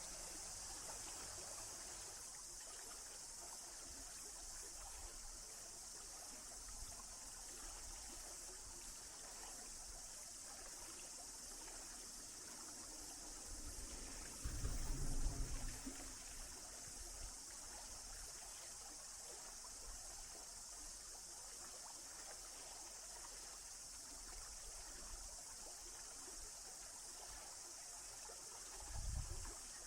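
Stream water flowing with a steady, faint rush and trickle. A brief low rumble about halfway through, the loudest moment, and a smaller one near the end.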